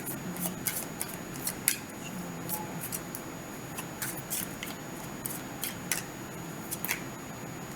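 Tarot cards being shuffled and drawn from the deck: a run of quick, irregular papery flicks and snaps.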